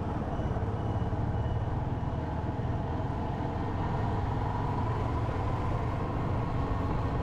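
Motorcycle running steadily under way, with engine hum and road and wind noise.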